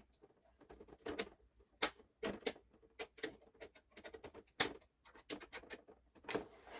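Screwdriver undoing the spring-loaded mounting screws of an AMD Wraith Stealth CPU cooler: a string of irregular small clicks and ticks, with a sharper click about two seconds in and again about four and a half seconds in.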